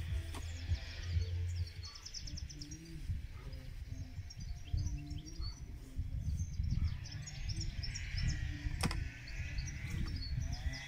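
Small songbirds chirping, with a quick trill about two seconds in, over a rumble of wind on the microphone; a single sharp click about nine seconds in.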